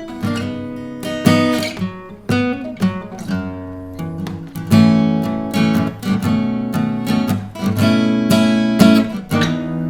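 Fortis FG-1000C dreadnought acoustic guitar with a solid spruce top, played as a mix of strummed chords and picked single notes, each chord left to ring.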